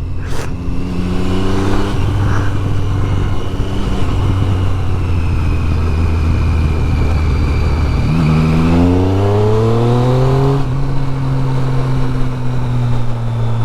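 Triumph Street Triple 675's three-cylinder engine with a loud exhaust, heard while riding. It holds a steady note, rises in pitch from about eight seconds in as the bike accelerates, then holds a higher steady note.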